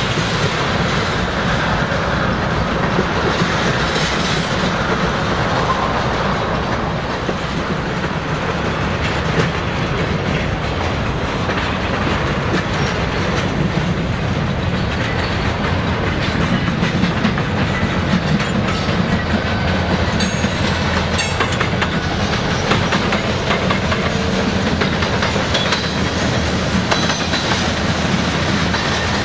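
Freight train rolling past at close range: a steady rumble with the wheels clicking over rail joints throughout.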